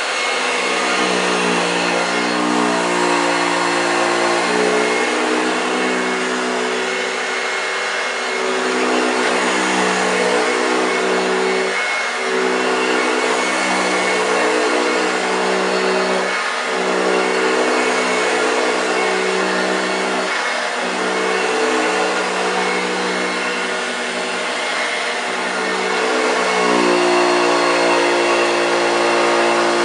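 A 1965 Hoover Junior 1334A upright vacuum cleaner running steadily on carpet. Its motor hum shifts in pitch every few seconds.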